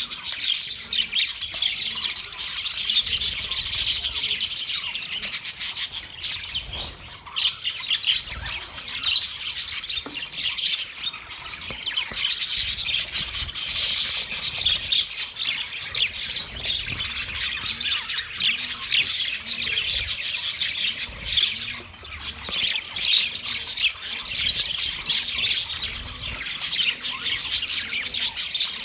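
Small pet parrots chirping and chattering without a break, a dense run of quick high chirps and squawks.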